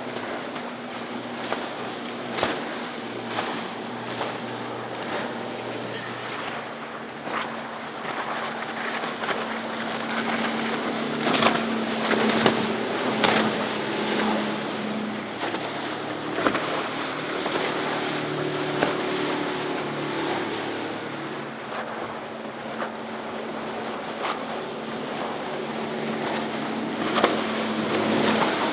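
Motorboat engines running as boats pass through an inlet: a steady low hum with tones that shift in pitch partway through, over the hiss of surf and wind. Several short, sharp noises stand out along the way.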